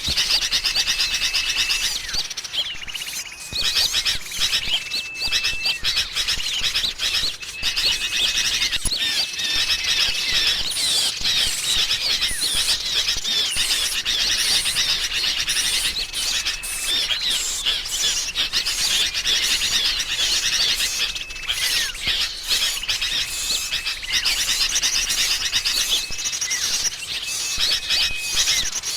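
Bird-trapping lure recording of noisy, agitated sooty-headed bulbuls mixed with small songbirds: dense, continuous chattering and chirping. A short, thin whistle on one steady note recurs every few seconds.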